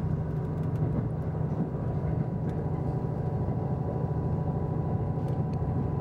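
Steady running noise inside the cabin of a KiHa 183 series diesel express train moving at speed: a low rumble from the engine and wheels on the rails, with a faint steady whine and a few light clicks.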